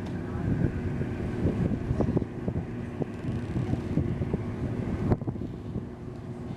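Wind buffeting the microphone in uneven gusts over a steady low engine hum from the harbor. A sharp click comes about five seconds in, after which the buffeting eases and the hum goes on.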